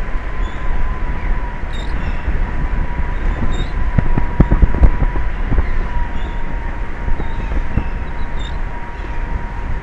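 Wind rumbling on an outdoor camera microphone, with a steady high-pitched whine and a few low thumps about halfway through.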